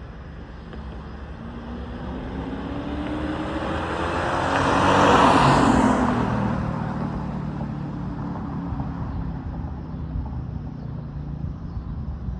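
2001 Lexus GS430's V8 with a muffler delete accelerating past. The exhaust note climbs in pitch and grows loudest about five seconds in, then fades as the car pulls away.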